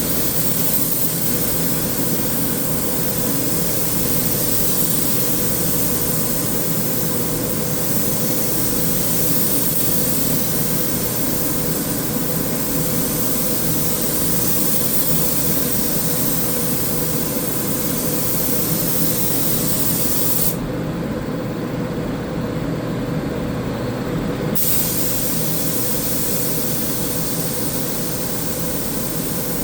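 Paint spray gun hissing steadily as it lays down sealer primer, with a pause of about four seconds near the end where the spray stops. A steady machine hum runs underneath throughout.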